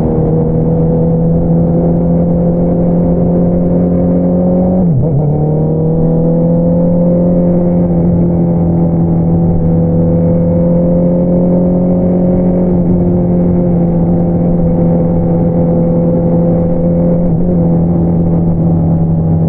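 Honda CBR650R's 649 cc inline-four engine running through an Akrapovič single-outlet exhaust at a steady cruise. About five seconds in, the revs dip sharply and then climb slowly back, and a smaller dip comes near the end.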